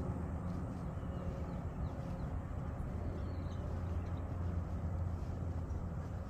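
Ework electric lawn mower running with a steady low hum.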